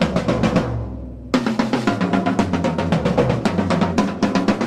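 Drum kit being sound-checked with fast rolls around the toms. Early on the playing stops and a low drum rings out for about a second, then the rolling starts again.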